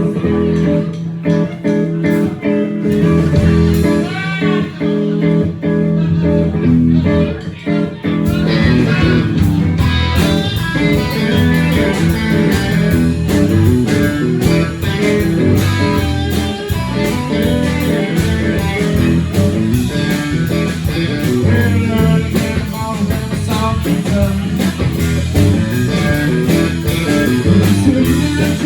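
Live band playing guitar-led blues-rock. An electric guitar carries a sparse opening with bent notes, and the drums and full band come in about eight seconds in.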